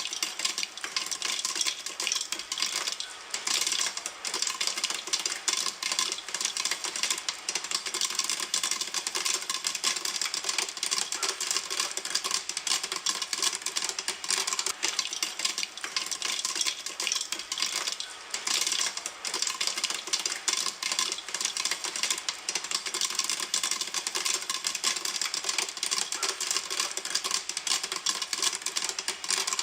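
Popcorn kernels popping in a pan: a dense, continuous stream of rapid sharp pops and clicks with no let-up.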